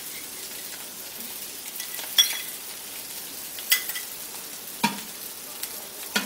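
Teasel gourd, onion and spice stuffing sizzling steadily as it fries in mustard oil in a kadai, with a few sharp clicks or taps spread through.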